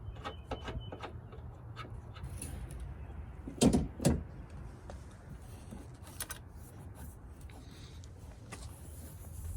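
Light clicks and rattles, then two loud thuds less than half a second apart about three and a half seconds in, as the Corvette's hood is shut and pressed down onto its newly raised bump stop to check the fit.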